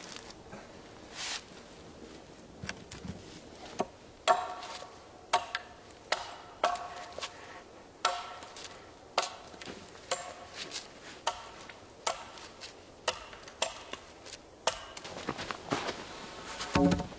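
A tool striking wood over and over, roughly one blow a second, each blow leaving a short ringing tone, with a heavier, duller knock near the end.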